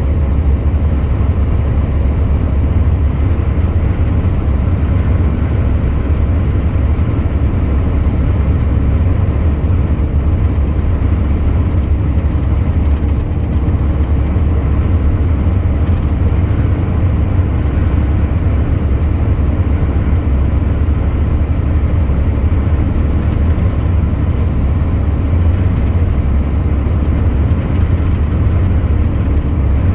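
Heavy truck driving at a steady speed: a loud, even, deep rumble of engine and road noise that does not change.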